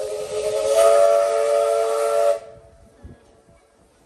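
Steam locomotive's chime whistle sounding a chord of several tones over a loud steam hiss. It dips briefly, swells again and cuts off sharply about two and a half seconds in.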